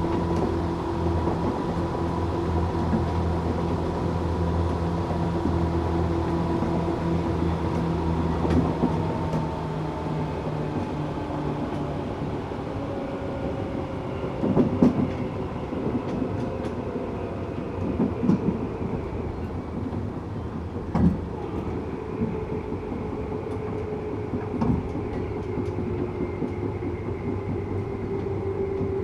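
Tokyu 8500 series electric train heard from inside the car, with its Toyo-built traction motors humming and whining in steady tones. About a third of the way through the low hum drops away and a lower whine slowly falls in pitch. Wheels clack over rail joints four times in the second half.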